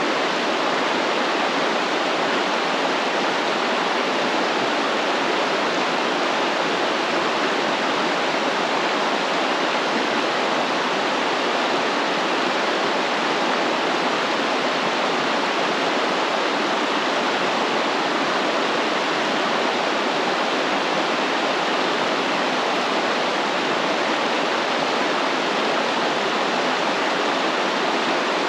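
Stream water flowing steadily, a continuous rushing wash with no breaks or changes.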